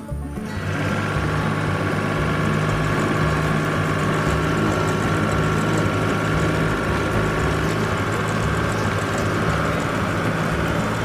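A cartoon heavy-vehicle engine sound effect running steadily at idle: a continuous low hum with a fluttering pulse underneath and a steady higher whine.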